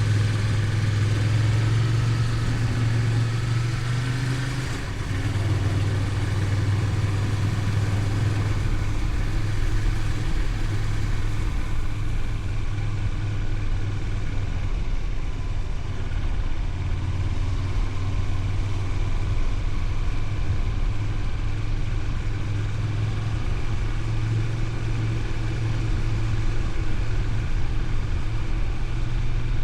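Honda VTR250's 250 cc V-twin engine running steadily while riding, with a brief drop in level about five seconds in.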